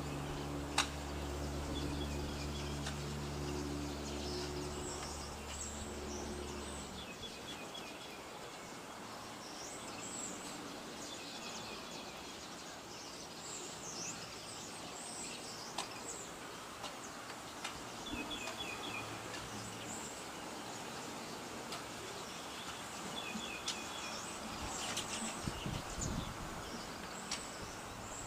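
Outdoor ambience of birds chirping with repeated short trills, over a steady background hiss. For the first seven seconds a low steady hum with several tones runs underneath, then cuts off abruptly.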